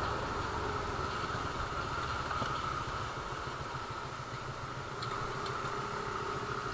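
Suzuki Raider R150 Fi motorcycle's single-cylinder engine running steadily at low speed, heard from the rider's helmet.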